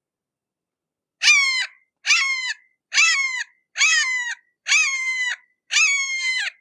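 Red-shouldered hawk calling: six harsh, evenly spaced calls, each about half a second long and dropping in pitch at its end, repeated a little under once a second, starting about a second in.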